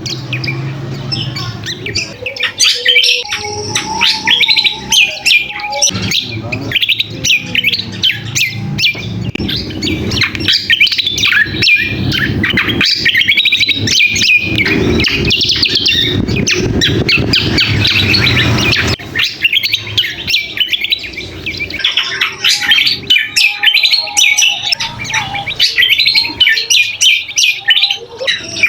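Kecial kombok songbird singing a rapid, busy run of high chattering twitters and chirps with no pause. This is the noisy calling used as lure audio to draw males and to tutor other songbirds.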